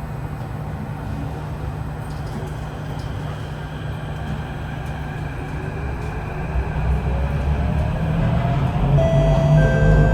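Kawasaki–CRRC CT251 metro train pulling away from a station: the traction motors whine, rising in pitch as it gains speed, over a low rumble that gets louder toward the end. This train has badly flat wheels.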